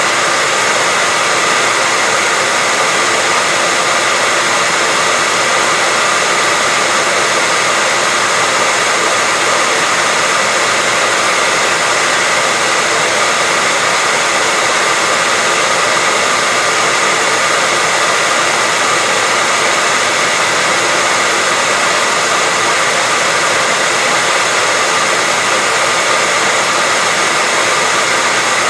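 Hair dryer running continuously, a steady airy rush of blown air with a faint whine from the fan motor.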